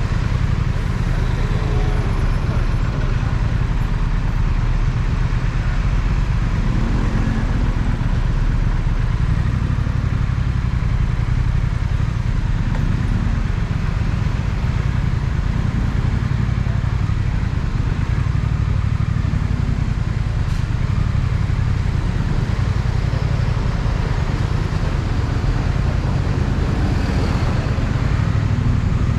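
Triumph Speed Twin motorcycle's parallel-twin engine running steadily under way, a constant low rumble with road and wind noise over it.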